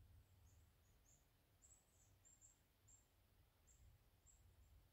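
Faint, very high, short bird chirps repeating irregularly every few tenths of a second over a faint low rumble.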